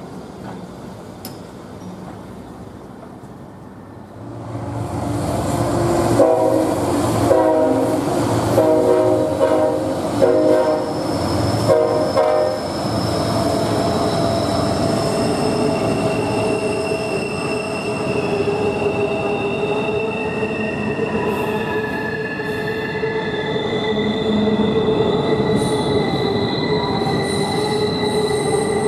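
CSX freight train with diesel locomotives crossing a steel bridge overhead: a series of short horn blasts between about six and twelve seconds in, then the steady rumble of the passing cars with high squealing from the wheels.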